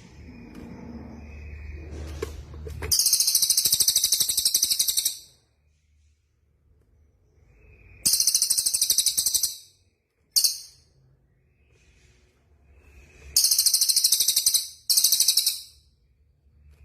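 Songbird singing a series of loud, very high, rapid buzzing trills, each lasting a second or two, with softer warbling between them. The trills come in about five runs: two close together near the end, and one very short one just after the middle.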